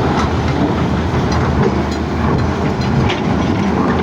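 CAT excavator's diesel engine running steadily under load, with irregular rattling and clanking of rock and steel as it works the load.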